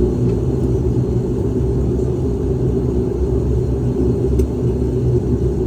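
Steady low drone of a Dash 8 turboprop's engines and propellers, heard inside the passenger cabin.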